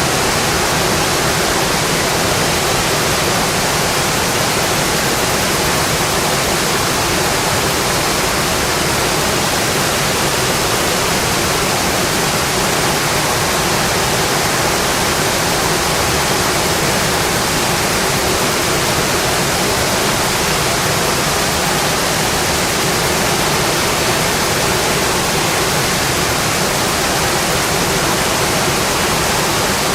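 Steady rain drumming on a metal roof, an even hiss with no pauses or changes.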